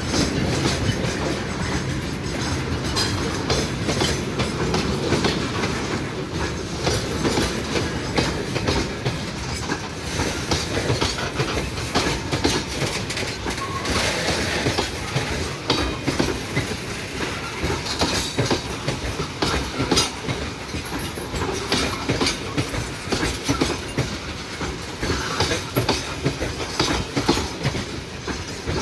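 A train rolling past, its wagons' wheels clacking over the rail joints in a steady, continuous rumble with many short clicks.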